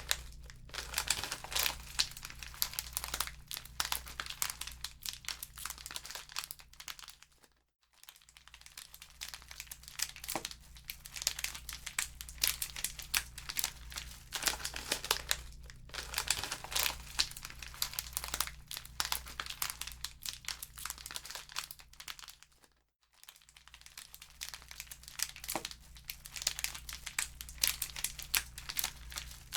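Wood fire crackling in a fireplace: a dense, irregular run of pops and snaps that fades out briefly twice, about a quarter of the way in and again near three-quarters.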